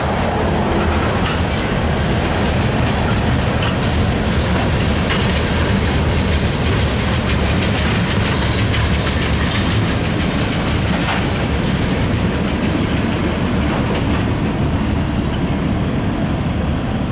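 Freight train's covered grain hopper cars rolling past close by: a steady, loud rumble of steel wheels on rail with rapid clattering clicks.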